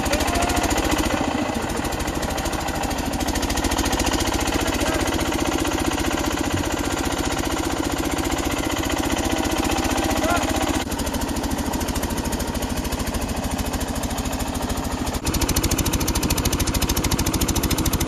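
Single-cylinder diesel engine of a water-pump set running steadily with a fast, even thudding beat. It gets slightly quieter about eleven seconds in, then louder again about fifteen seconds in.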